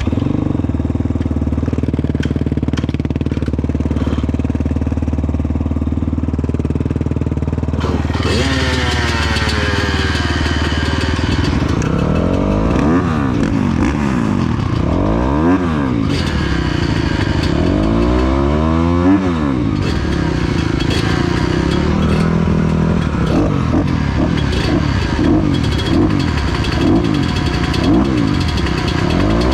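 Dirt bike engine running steadily, then from about a quarter of the way in revving up and down over and over as it is ridden.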